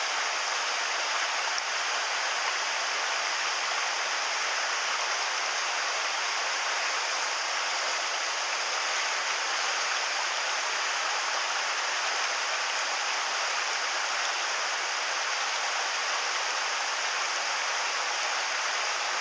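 Mountain stream water rushing with a steady, even sound.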